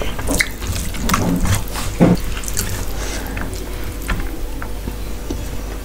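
Close-miked wet chewing and mouth smacking of a mouthful of rice and curry, with sharp smacks in the first couple of seconds and then steadier soft, wet chewing.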